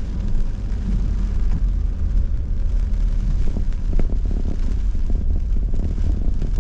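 Steady low rumble of a car driving slowly, heard from inside the cabin, with a few short knocks about four seconds in.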